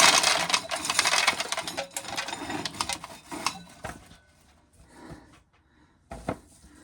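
Corn sheller stripping kernels off an ear of corn: a dense crackling rattle of dry kernels breaking loose that thins out and stops about four seconds in. A single low knock follows near the end.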